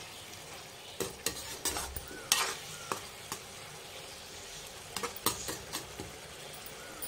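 Minced meat sizzling quietly in a kadai, frying in the water it has released, while a slotted spatula stirs it with scattered scrapes and taps against the pan.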